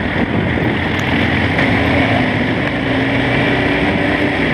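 Motorcycle engine running steadily while riding at road speed, with heavy wind rush over it.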